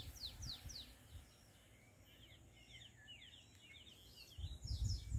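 Faint bird calls: a few quick falling whistles, then a run of short chirps, then more falling whistles near the end. Low muffled thumps come in near the end.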